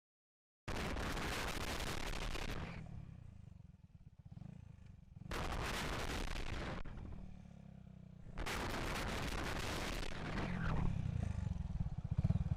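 Minsk D4 125 motorcycle ridden along: its 125 cc single-cylinder engine pulses underneath, while wind hits the microphone in three long rushing gusts. After about ten seconds the engine grows louder, as if pulling harder.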